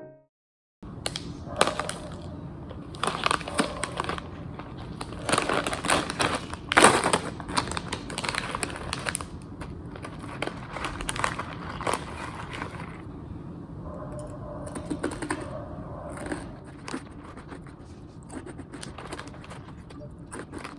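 Close-up rustling and crinkling with many light clicks and taps, irregular and busiest in the first half, as things are handled at a desk.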